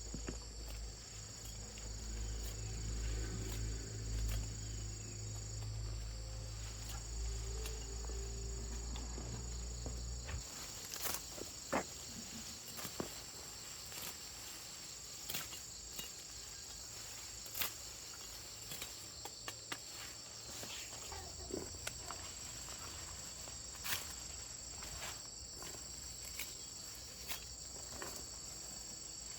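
Steady high-pitched insect chorus, like crickets. A low hum runs underneath for the first ten seconds and then stops suddenly; after that there are scattered sharp clicks.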